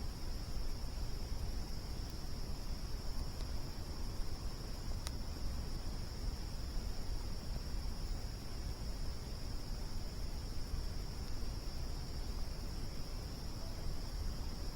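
Steady, unbroken chorus of crickets chirring at a high pitch, over a low rumble, with one sharp pop about five seconds in.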